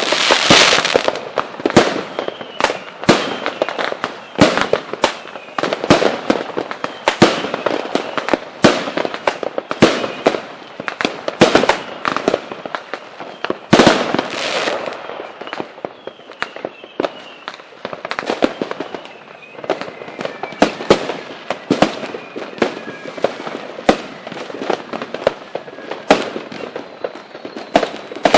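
Fireworks display: a rapid, irregular run of sharp bangs and cracks, several a second, with one especially loud bang about 14 seconds in.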